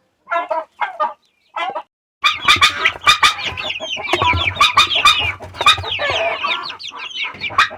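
A brooder full of young poultry chirping and peeping over one another, with scattered sharp clicks among the calls. Only a few short calls come in the first two seconds, then a brief gap before the dense chirping starts.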